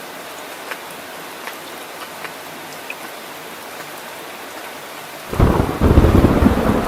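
Heavy rain falling steadily, with scattered sharp drop ticks in the hiss; about five seconds in, loud low thunder suddenly rumbles in and keeps rolling.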